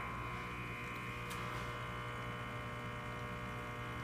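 Rocket espresso machine's pump running with a steady buzz while it extracts a shot at about 9 bars of brew pressure.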